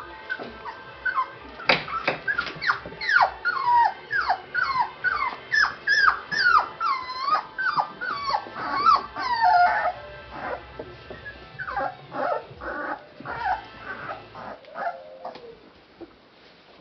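Month-old puppies whimpering in a quick series of short, high yelps, many falling in pitch, about two a second, thinning out after about ten seconds.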